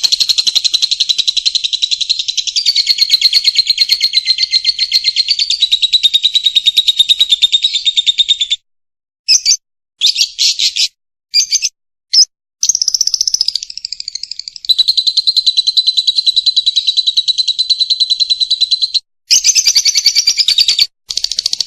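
Lovebird singing in long, fast, high-pitched trills of rapidly repeated notes. About a third of the way in, the song breaks into short bursts for a few seconds before the long trilling resumes.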